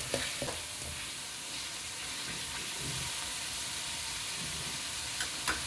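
Tomato-and-spice masala frying in oil in a pan, a steady sizzle and hiss. It is at the well-roasted stage, with the oil separated out. A few light clicks come near the start and again near the end.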